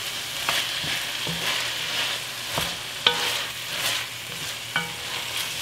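Garlic, ginger, onions and bell peppers sizzling as they sauté in an enamelled cast-iron pan, while a wooden spoon stirs and scrapes them. A few sharp knocks of the spoon against the pan come through, two of them ringing briefly.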